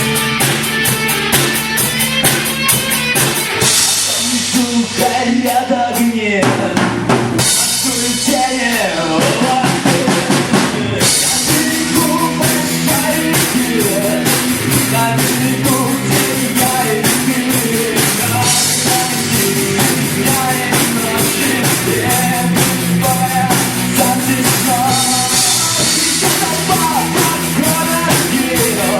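Live rock band playing an instrumental passage: a driving drum kit beat with bass drum and snare, under sustained electric guitar and bass.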